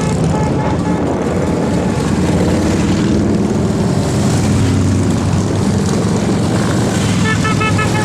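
Motorcycle engines running with a steady low drone.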